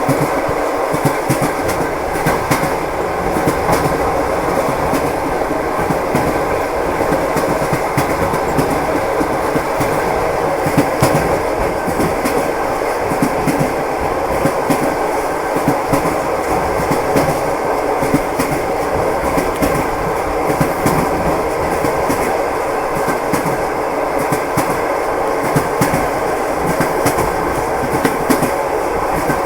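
Railway carriage wheels clattering over rail joints as a train runs steadily, a continuous rumble with frequent sharp clicks.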